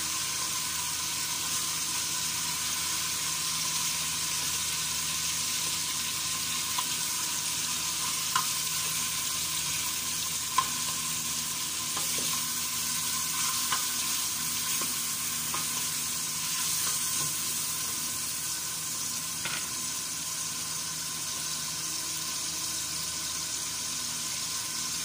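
Chicken pieces sizzling steadily as they fry in oil in a pot, stirred with a wooden spoon, with a few sharp clicks along the way.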